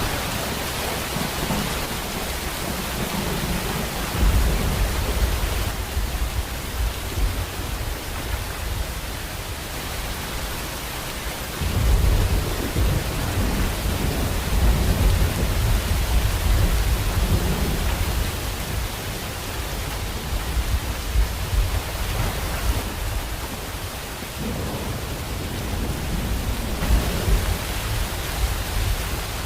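Steady heavy rain with low rolls of thunder: one rumble starts about four seconds in, and a longer one begins about twelve seconds in and lasts around ten seconds.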